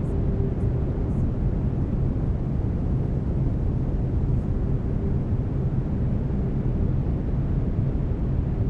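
Steady brown noise, a deep even rumbling hiss weighted to the low end, with faint steady low tones from the binaural delta-wave beats underneath.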